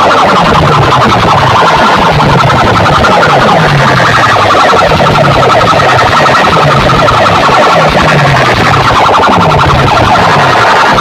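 DJ sound-box loudspeaker rig playing a competition track at full volume, heavily distorted. Deep bass sweeps fall in pitch about once a second over a dense, harsh, siren-like wash.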